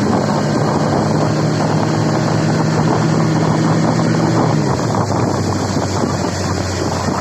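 Motorboat engine running under heavy wind buffeting on the microphone; the engine's steady note drops out about four and a half seconds in while the wind noise carries on.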